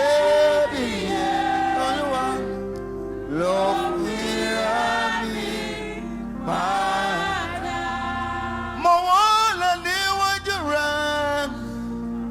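Gospel singing: a voice holding and bending long notes in drawn-out phrases over a low sustained accompaniment.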